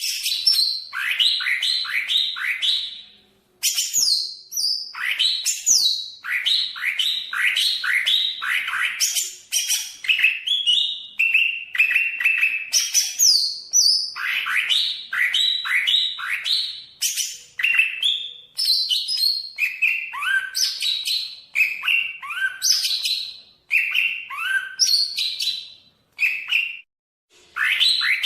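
Greater green leafbird (cucak ijo, Banyuwangi type) singing vigorously: fast runs of sharp, downward-sweeping whistled notes, several a second, broken by brief pauses.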